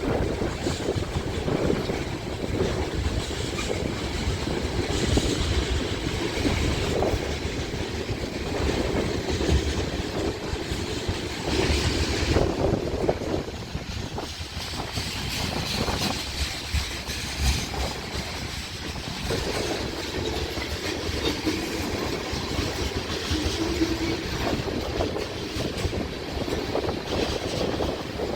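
Freight train rolling past: a steady rumble of the cars with irregular clacking of the wheels over the rail joints.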